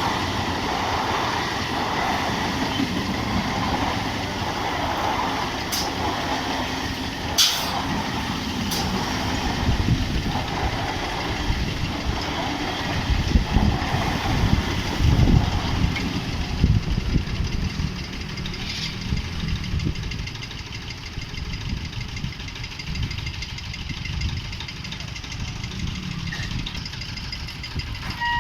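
A train running past a level crossing: a steady rumble of wheels on the rails with a few sharp clicks, easing off in the second half.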